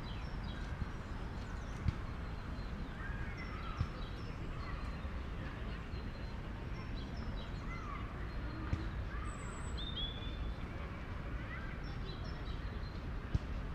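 Many small birds chirping in short, overlapping calls over a steady low rumble of city background noise, with a few sharp clicks.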